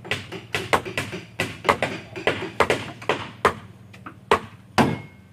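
A hand tool striking wood, sharp blows in quick, uneven succession, about three a second, as in hammering or chopping during wooden boat building.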